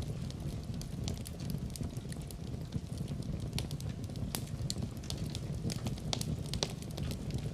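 Wood fire burning in a fireplace: a steady low rumble of flames under irregular, sharp crackles and pops from the burning logs.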